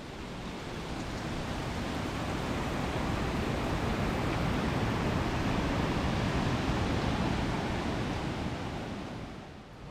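Steady rushing of a waterfall, the water running high after recent rain. It swells a little toward the middle.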